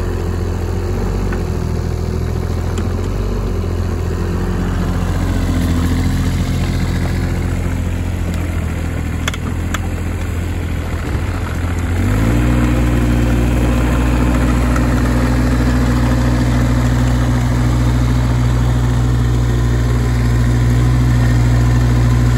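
Schaeff-Terex AM 16R excavator's diesel engine running at a steady idle, then speeding up about halfway through and holding a higher, louder steady speed.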